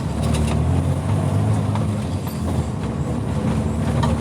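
Vehicle engine running at low speed with scattered knocks and rattles as it creeps over a rough, broken street.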